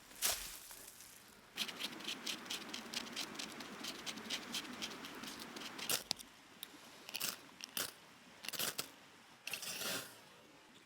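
Irregular crunching and crackling, with a few seconds of steadier rustling near the start and sparser, louder crunches later on.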